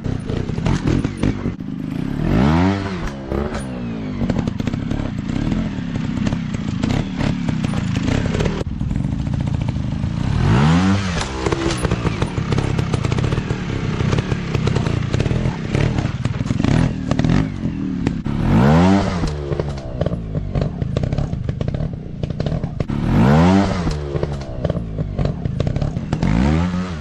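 Dirt bike engine running, revved up hard and let fall four times, with rough engine noise and clatter between the revs.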